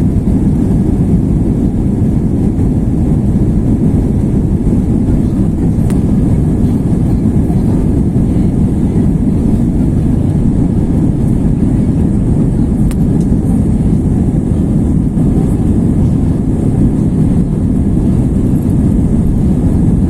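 Cabin noise in an Airbus A321-231 under takeoff thrust: a loud, steady, deep rumble of its IAE V2500 turbofan engines and rushing air, heard from a rear-cabin window seat.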